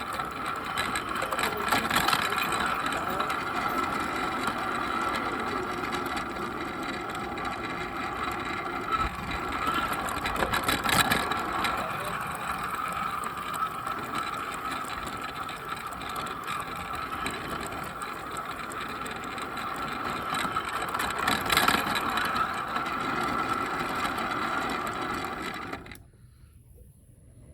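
Bachmann Percy model train locomotive running along garden railway track, its motor and gears whirring steadily, heard from on board the train, with a few louder clacks along the way. The running cuts off suddenly near the end.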